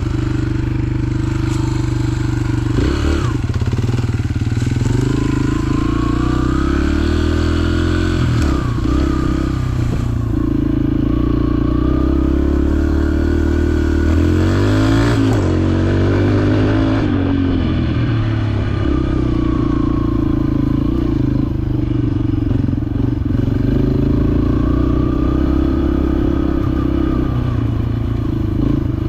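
Dirt bike engine running under way, its pitch rising and falling several times as the throttle is worked.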